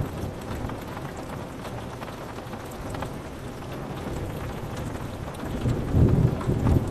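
Steady rain pattering on window glass, with a low rumble of thunder swelling about six seconds in.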